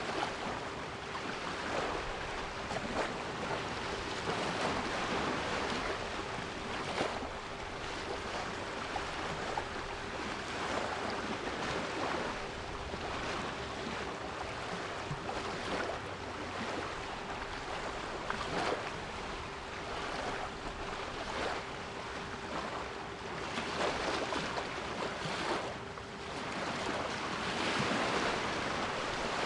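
Sea waves washing in and out, swelling every few seconds and loudest near the end, with a steady 396 Hz pure tone held underneath.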